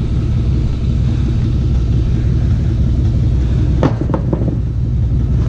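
An engine idling steadily with a low, even rumble, with a few short clicks about four seconds in.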